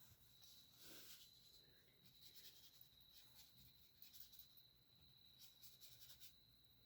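Faint soft strokes of a paintbrush on watercolour paper, under a steady faint high-pitched whine.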